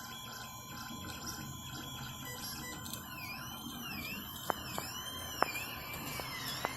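FDM 3D printer at work: its stepper motors whine in repeated rising-and-falling sweeps as the print head moves, becoming clearer about halfway through, with a few sharp ticks.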